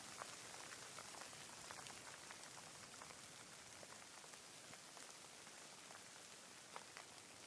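Gentle rain falling: a faint, steady hiss with scattered individual drops ticking on a surface.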